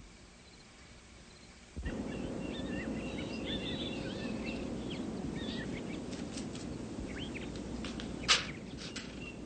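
Birds chirping over a steady outdoor background hiss, starting abruptly about two seconds in, with one sharp click near the end.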